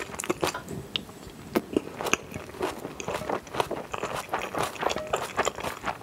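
Close-miked eating of jajangmyeon noodles in black bean sauce: wet chewing and mouth smacks in a quick irregular run of short clicks, with a spoon scraping the plate as more is scooped up.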